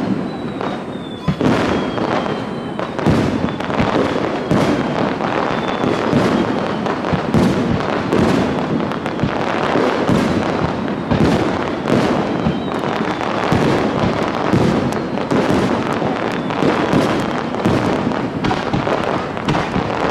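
Fireworks going off in a dense, continuous barrage, shell bursts following one another about twice a second.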